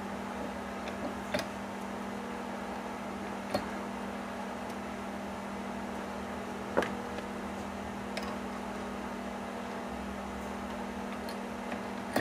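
Pliers clicking against a steel cotter pin while it is spread and bent over on an engine's kick-pedal spring: a handful of short sharp metal clicks, spaced a few seconds apart, the loudest about seven seconds in. A steady low hum runs underneath.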